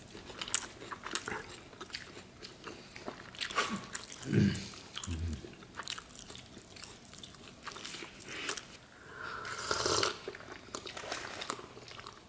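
Close-up eating sounds of a homemade cheeseburger: bites and chewing with small crunches of lettuce and bun. About nine to ten seconds in there is a longer wet, slurp-like sound.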